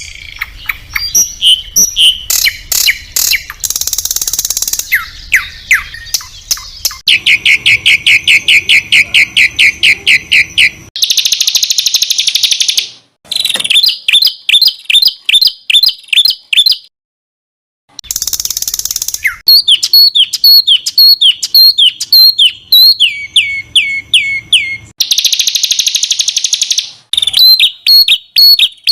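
Masteran recording of songbird calls spliced one after another: fast runs of sharp repeated notes, trills and harsh buzzy bursts, the dense, rough 'tembakan' phrases used to tutor competition songbirds. It breaks off for about a second a little past the middle.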